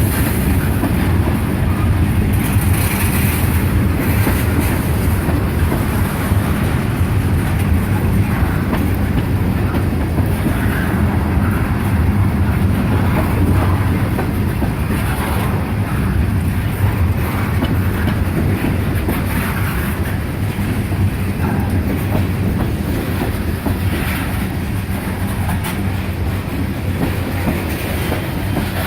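Freight cars of a long CSX manifest train rolling slowly past, with a steady rumble and the clickety-clack of wheels over rail joints.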